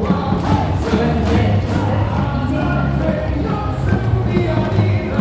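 Stadium cheering music played loud over the ballpark speakers, with the crowd singing along to a steady beat of about two strokes a second.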